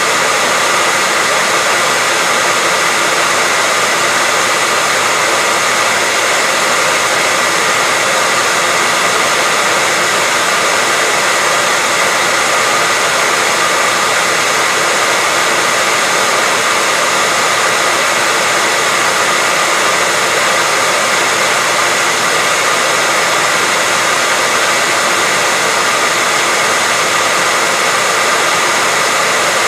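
Hair dryer blowing steadily: a continuous airy rush with a faint steady whine.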